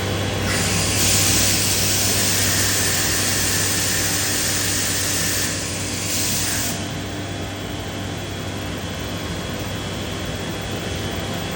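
Biesse Rover K CNC router running, a steady machine hum with a louder hissing rush from about half a second in until almost seven seconds in.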